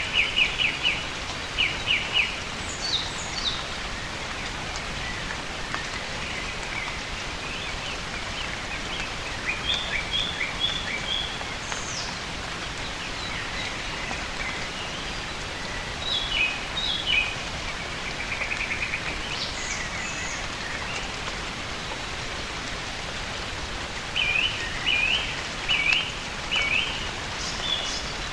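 Steady hiss of rain falling on foliage, with birds calling in short series of quick high chirps several times, loudest near the start and near the end.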